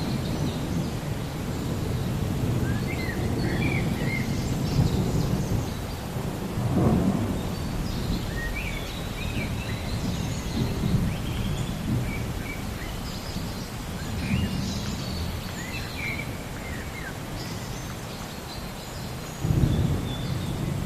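Thunderstorm: low rolling thunder over steady rain, the rumble swelling about seven seconds in and again sharply near the end. Birds chirp in short scattered calls over it.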